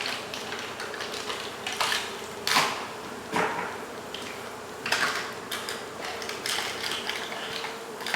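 Steady hum of a honey bee colony, with irregular clicks and scrapes of comb and tools being handled during a hive cut-out.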